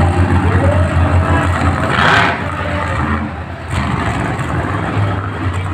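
Monster truck engine running loud and revving, with a short burst of noise about two seconds in.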